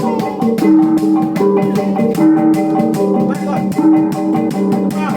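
Traditional gong ensemble playing: tuned gongs struck in a repeating pattern of held low tones, over fast, steady percussive strikes.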